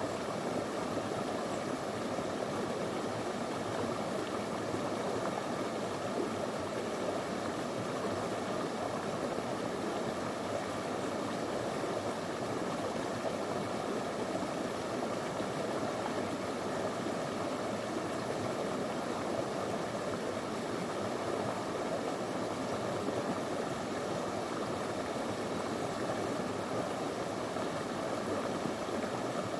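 Small stony river flowing steadily, water running over and around rocks with an even, unbroken rushing sound.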